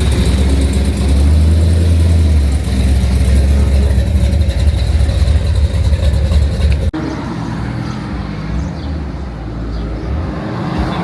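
A car engine running loud and low at close range. About seven seconds in, the sound cuts abruptly to a quieter, lower-level engine sound.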